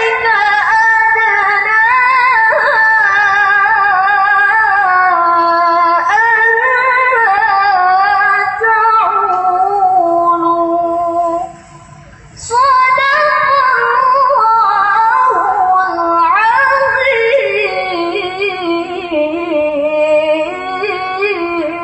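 Solo voice chanting Quran recitation in the melodic tilawah style: long, drawn-out phrases with rich vocal ornaments, broken by a short pause about halfway.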